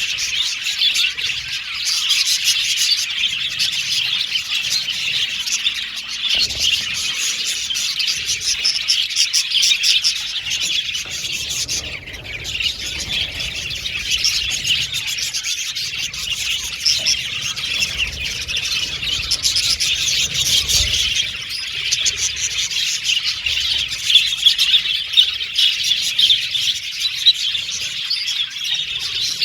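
A colony of budgerigars chirping and chattering continuously, many birds at once in a dense, unbroken chorus of rapid high chirps.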